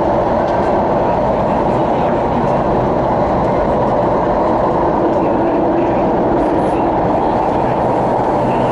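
Interior running noise of an MTR West Rail Line CRRC Changchun electric train in motion: a steady rumble of wheels on rail and carriage noise.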